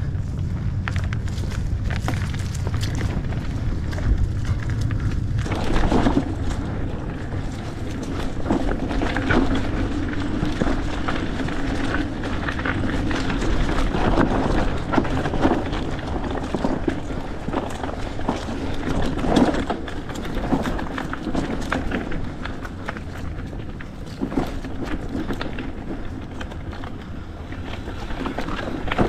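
Mountain bike being ridden over a rough dirt trail: a steady rumble of the tyres with frequent knocks and rattles as the bike goes over bumps, and wind on the microphone.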